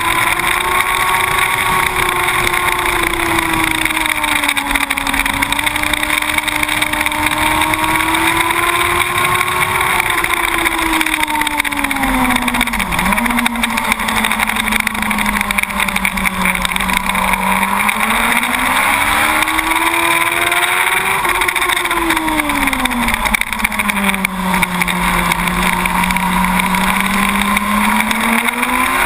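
Yamaha R1 SP's inline-four engine at track speed, its note rising and falling as the rider works the throttle through the corners, with one brief sharp dip about thirteen seconds in. Heavy wind rush runs under it throughout.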